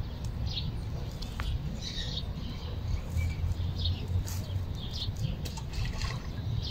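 Small birds chirping in short scattered calls over a steady low rumble, with a few sharp clicks.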